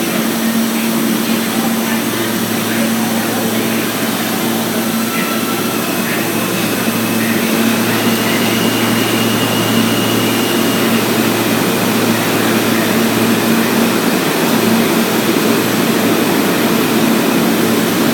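R160 subway train running along the station platform: a loud, steady rumble of wheels and motors with a low hum, and a faint high whine in the middle.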